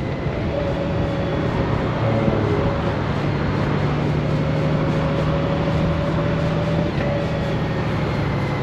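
Honda Gold Wing's flat-six engine running steadily under way, over a heavy rush of wind and road noise. The engine's note steps in pitch twice, about two seconds in and again near the end.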